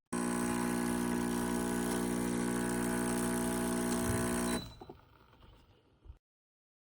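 Espresso machine running with a steady buzzing hum over a hiss, cutting off abruptly about four and a half seconds in, then a few faint knocks before silence.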